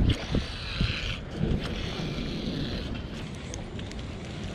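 Wind rumbling on the microphone, with a hiss in the first half and a few small clicks and knocks.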